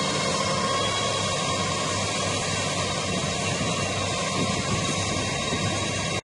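Fendt Vario tractor's diesel engine working steadily under load while pulling a harrow, a constant engine note with a high whine over it. The sound cuts off abruptly near the end.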